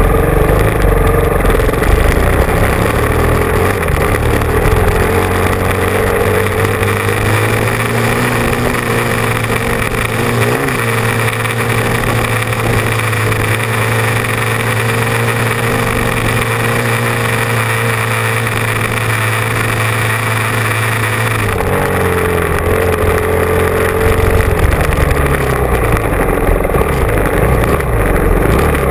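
Motocross motorcycle engine running hard. Its pitch holds steady for a long stretch, then drops and changes again about three quarters of the way through.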